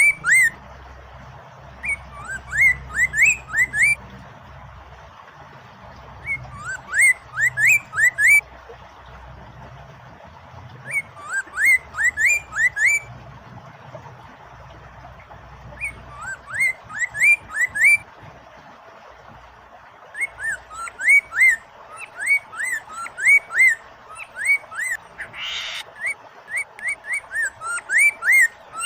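Poksay mandarin singing in repeated bursts of quick, sweeping whistled notes, each phrase about two seconds long with short gaps between, over a steady background rush of flowing water. A brief noisy burst cuts in near the end.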